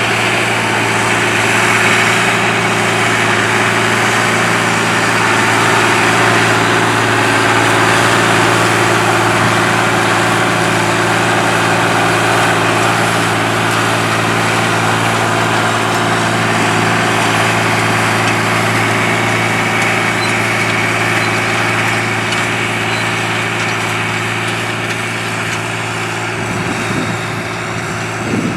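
John Deere 8300 tractor's six-cylinder diesel engine running at a steady pitch.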